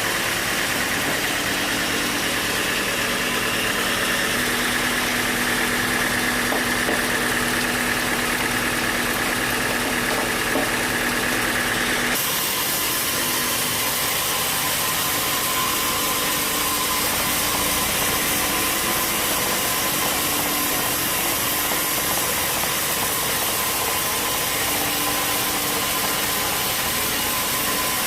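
Sawmill engine running steadily. The sound changes abruptly about twelve seconds in, then runs on just as steadily.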